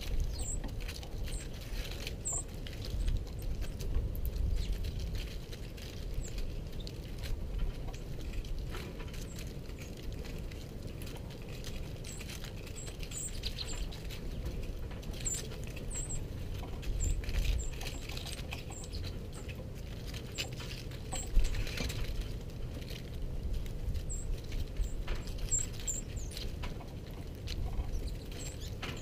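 Small finches pecking and hopping over seed on a table: a busy patter of small taps, with short high-pitched chips scattered throughout.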